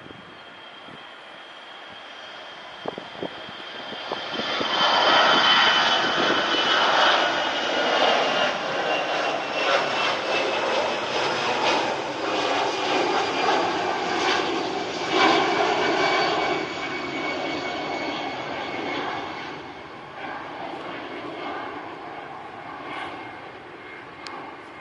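Airliner engines passing close by: the engine noise swells over a few seconds, holds loud for about ten seconds and then slowly fades, with a high whine drifting slowly down in pitch.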